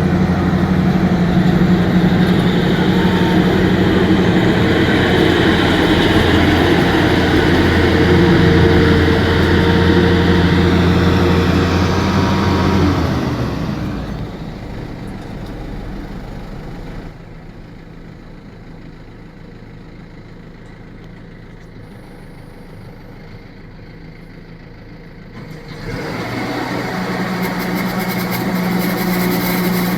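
A heavy machine's engine running loudly with a steady hum for about 13 seconds, then dropping away to a much quieter low running for about ten seconds, and picking up again near the end.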